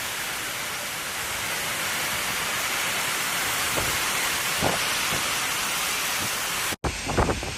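Typhoon storm, a steady hiss of heavy wind-driven rain. Near the end it cuts off abruptly and gives way to gusts buffeting the microphone.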